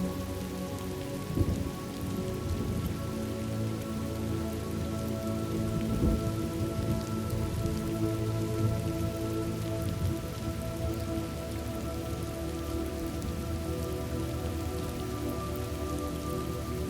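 Steady rain falling, with low thunder rumbles that swell about a second and a half in and again around six seconds in.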